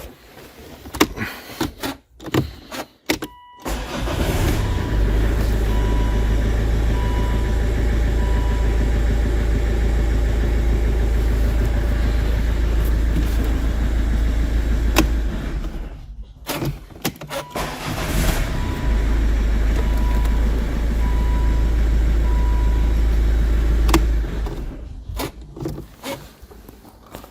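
Volvo engine being cranked by the starter motor in two long attempts, the first lasting about ten seconds and the second about six, each stopping abruptly. A dashboard chime beeps steadily during both attempts, and a few clicks come just before the first.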